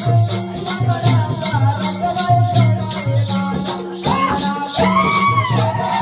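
Folk music with a steady, repeating drum beat and a rattling shaker keeping time, under a melody line that rises and bends about four seconds in.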